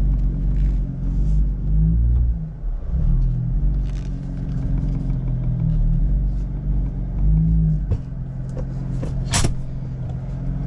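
Truck engine running at a raised idle, its pitch rising and falling slightly a few times, with a sharp knock near the end.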